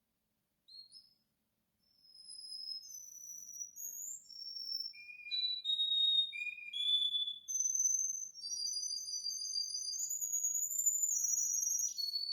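Domestic canary singing: a short note, then from about two seconds in a continuous song of clear whistled notes, many of them long-held, stepping up and down in pitch.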